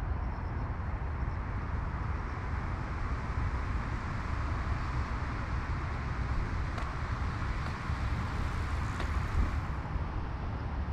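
Steady outdoor ambience dominated by a low rumble of road traffic, with no single event standing out.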